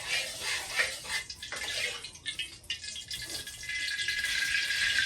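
Water running at a kitchen sink with clinks and clatter of a knife and utensils being rinsed. About three and a half seconds in, a steady hiss takes over.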